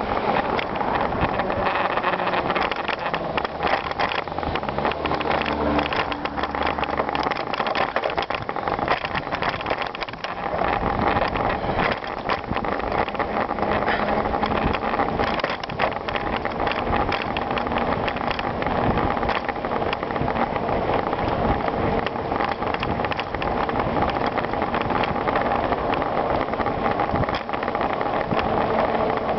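Bicycle being ridden over a rough trail: steady tyre and rattling bike noise with wind buffeting the microphone.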